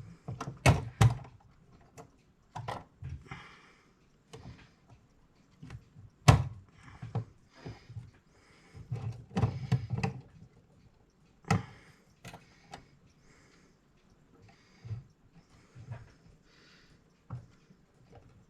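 Small metal clock-movement parts and tools being handled during reassembly: irregular sharp clicks and light knocks with brief scraping between them, the loudest knock about six seconds in.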